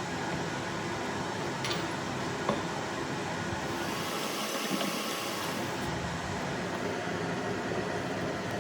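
Steady hiss and whir of a running machine, with a couple of faint clicks in the first few seconds.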